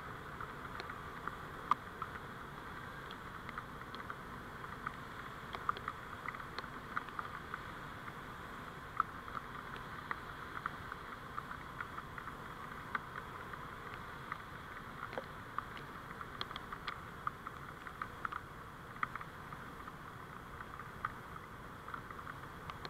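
Steady road and vehicle noise picked up by a dashcam's microphone: an even hiss with many faint, irregular ticks scattered through it.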